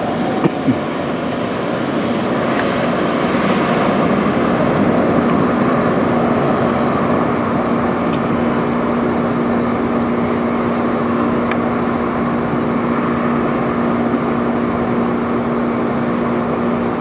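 Jet aircraft engines running as a plane passes over near the airport: a steady, loud rush of jet noise with a steady low hum joining about six seconds in.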